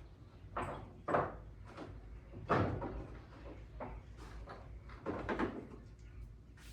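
Rummaging through tool drawers: a handful of separate knocks and clatters as drawers and tools are handled, the loudest about two and a half seconds in, over a low steady hum.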